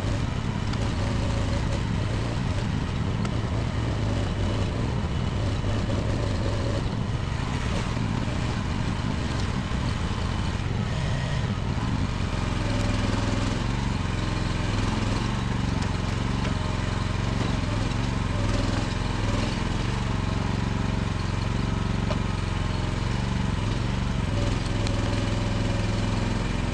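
Small mini excavator engine running continuously. About twelve seconds in, its note settles into a steadier, more even hum.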